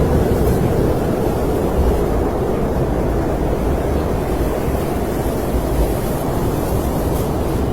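Snowstorm wind ambience: a steady, loud, low rushing of wind with a faint hiss above it, no distinct gusts or breaks.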